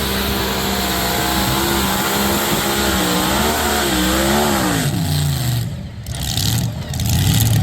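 Modified pulling tractor's engine running hard at a steady pitch, then wavering and dropping away about five seconds in; louder engine noise builds again near the end.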